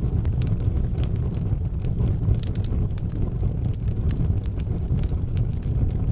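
Wood fire burning in an outdoor fireplace: a steady low rumble of flames with frequent small crackles and pops scattered throughout.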